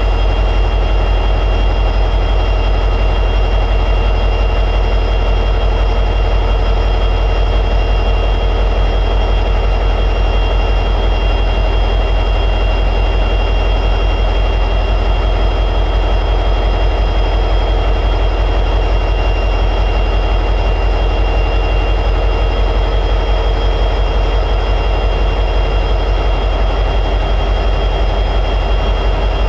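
EMD 710G3B two-stroke diesel prime mover of an SD60E locomotive running steadily at high idle. It makes a heavy, even low throb with a steady high-pitched whine over it.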